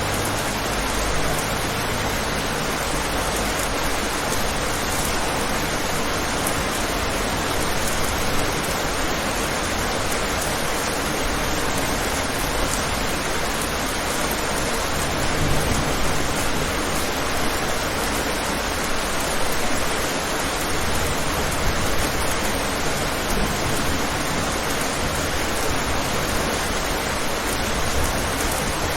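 Steady rain falling on a window: an even, unbroken hiss.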